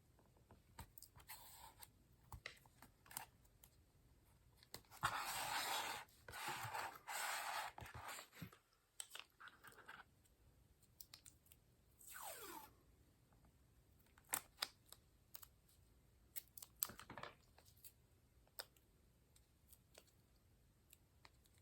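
Paper being handled and worked by hand on a work surface: a run of scraping, rustling strokes about five seconds in, a brief sliding sound later, and scattered light taps and clicks.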